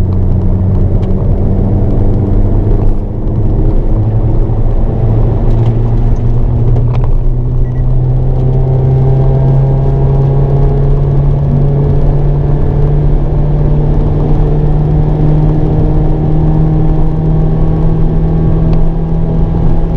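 Hyundai Avante N's turbocharged 2.0-litre four-cylinder under throttle, heard from inside the cabin. Its note dips briefly about three seconds in, then climbs slowly and steadily as the car accelerates along the track, over road and tyre noise.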